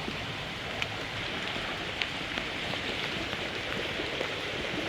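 Steady hiss of rain and running water, with a few faint drops ticking.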